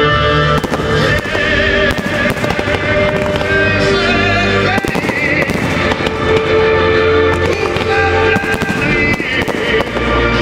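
Aerial fireworks shells bursting in an irregular stream of sharp bangs and crackles, over loud music with held notes.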